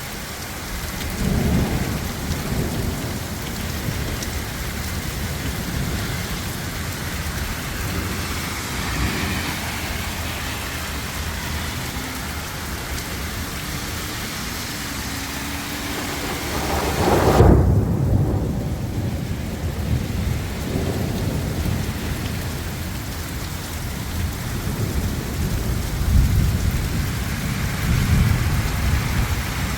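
Heavy rainstorm: a steady downpour with several deep rumbles, the loudest a little past halfway.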